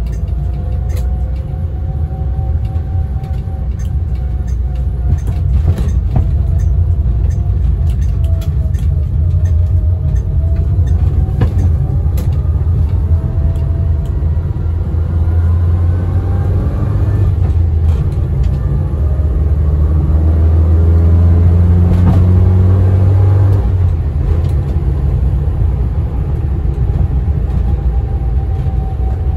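Cabin sound of a 1975 Austin Allegro's 1098cc A-series engine and in-sump four-speed gearbox on the move: a steady low rumble with a thin gearbox whine that rises and falls with road speed. About halfway through, the engine pulls harder and the pitch climbs, then it settles back to a cruise.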